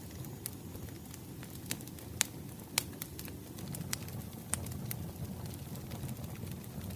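Wood fire crackling: irregular sharp pops and snaps over a low, steady rumble of burning logs.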